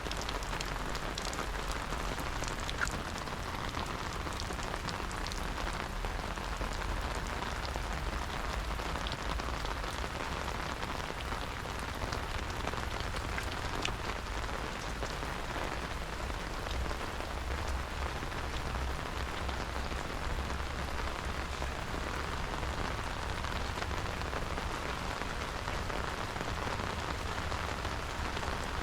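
Steady rain falling, with many scattered drops ticking sharply.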